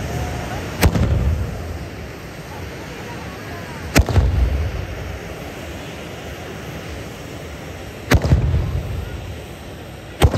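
Hand-held tezutsu bamboo fireworks spraying with a steady rushing hiss, broken by four loud bangs a few seconds apart, each followed by a low rumble. The bangs are typical of the 'hane' blast in which a tezutsu's bottom bursts out at the end of its spray.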